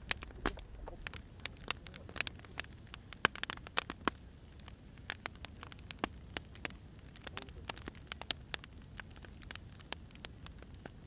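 Firewood burning: irregular sharp pops and snaps, several a second, over a steady low rumble and hiss of the fire.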